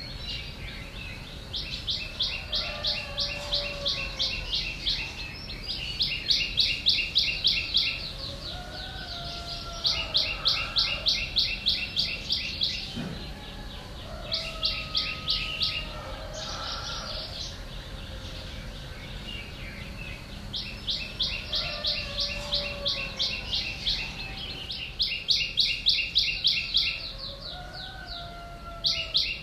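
Birds chirping: repeated bouts of rapid, evenly spaced high chirps, each lasting about two seconds and coming back every few seconds, with softer whistled notes in between.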